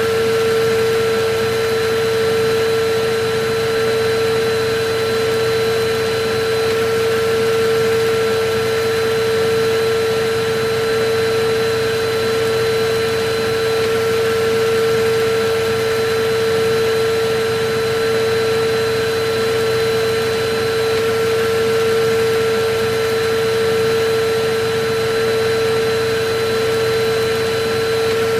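Electric vacuum cleaner running steadily: an even rushing air noise over a constant mid-pitched motor whine, swelling very slightly every couple of seconds.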